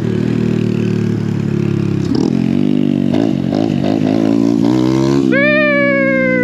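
Motorcycle engines running, the nearby engine's pitch wavering up and down as the throttle is worked. About five seconds in, a loud, higher-pitched engine note cuts in and falls steadily in pitch as a fast bike goes by.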